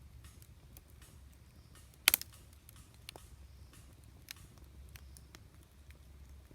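Wood campfire crackling: scattered small ticks and pops over a low steady rumble, with one loud sharp pop about two seconds in.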